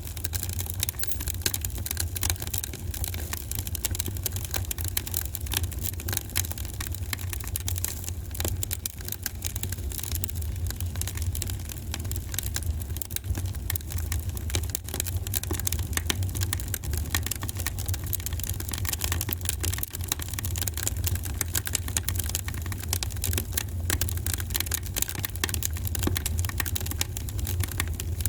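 Wood fire crackling in a fireplace, with dense, irregular pops and snaps over a steady low rumble.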